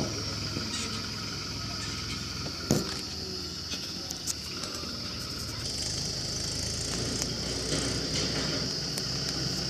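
Swaraj tractor's diesel engine running steadily, with a sharp knock about three seconds in. The engine grows a little louder in the second half.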